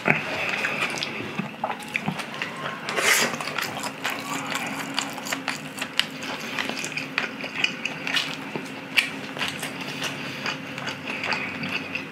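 Close-miked wet chewing: a person eating saucy udon noodles and seasoned chicken, with many small sticky mouth clicks and smacks.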